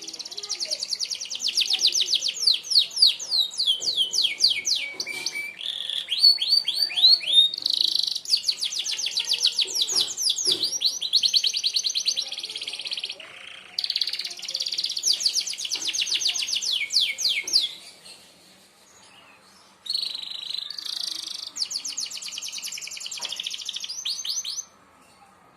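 Canary singing the fast 'sharp shot' (tembakan tajam) merlok song: long rolls of rapid repeated high notes, some sweeping downward, broken by a short gap and a couple of seconds' pause.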